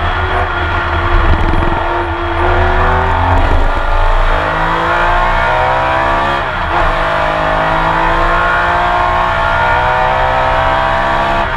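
Porsche 911 RSR flat-six racing engine heard onboard under hard acceleration. After a few seconds of lower, uneven revs, the pitch climbs steadily through a gear, drops briefly at an upshift about six and a half seconds in, then climbs again through the next gear.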